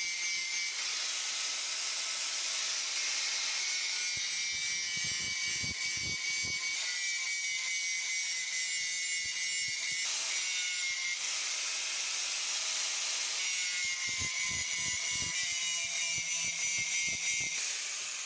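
Angle grinder grinding steel: a steady high-pitched grinding hiss with a motor whine, getting rougher in patches as the disc bites. Near the end it is switched off and winds down.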